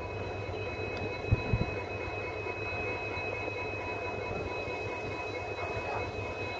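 Passenger train's steady low rumble under a few steady high-pitched whining tones, with a couple of dull thumps about a second and a half in.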